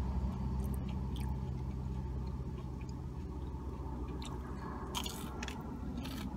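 A person chewing and biting food close to the microphone, with a few sharp crunches, the strongest about five seconds in. Under it runs a steady low rumble of traffic from a nearby main road.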